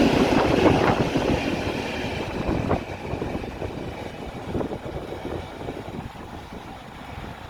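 Train rolling past on the rails, its wheels clattering over the track, fading steadily as it moves away, with wind buffeting the microphone by the end.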